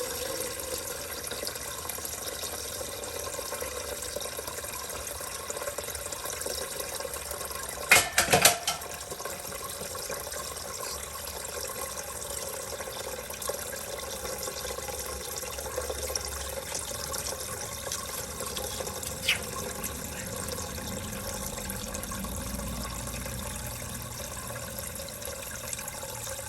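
Water pouring steadily out of the oil drain hole of a junkyard Pontiac V8's oil pan into a catch pan: water in the crankcase where the oil should be. A short loud clatter about eight seconds in.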